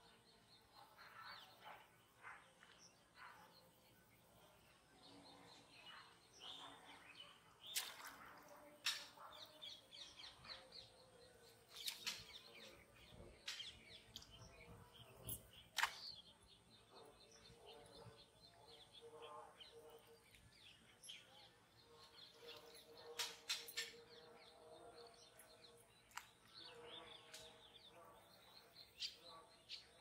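Faint outdoor ambience: birds chirping now and then, with a few sharp clicks scattered through it.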